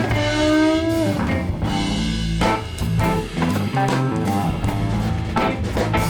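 A band playing rock music live: guitar over bass and drum kit, with no singing. The guitar bends its notes during the first second.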